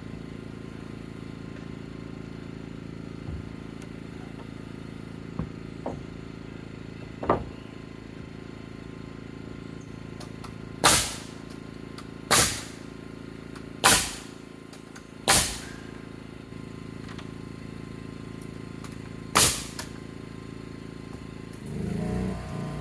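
Rafter being nailed into a wooden barn frame: five sharp nailing strikes, four about a second and a half apart and a last one a few seconds later, with a few lighter knocks before them, over a steady low hum.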